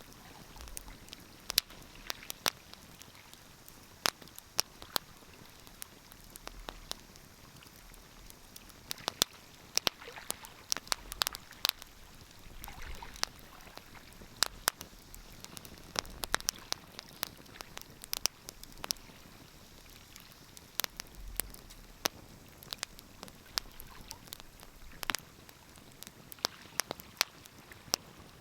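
Wood fire crackling: irregular sharp pops and snaps, several a second at times, over a faint steady hiss.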